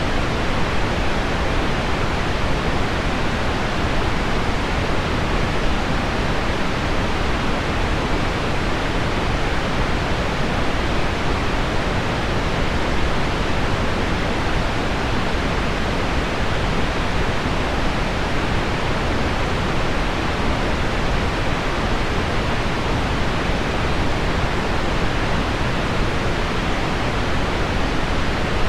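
Heavy rain on window glass blended with deep pink noise: a steady, even rushing hiss, weighted toward the low end, with no separate drops standing out.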